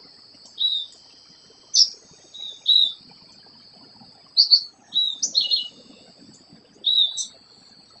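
Small tropical birds chirping: short, high calls come one or two at a time, about a dozen in all, over a thin, steady high tone.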